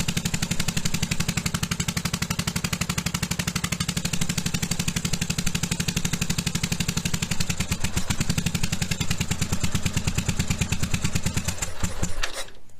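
1982 Yamaha Virago 750's V-twin engine idling steadily, firing on its rear cylinder, then stalling suddenly near the end once a tiny bit of choke is added. It runs over-rich with choke, which the owner suspects comes from a 132 main jet in the rear carburettor where a 128 is wanted.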